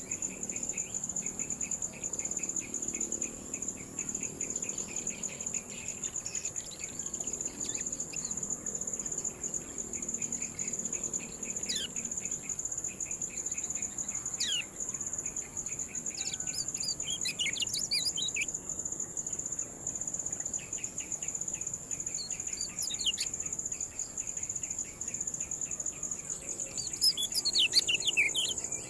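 Kecial kuning (white-eye) giving sharp falling 'ciak' calls, scattered at first, then a quick flurry halfway through and another near the end, over a steady high insect drone and a fast pulsing cricket-like chirr.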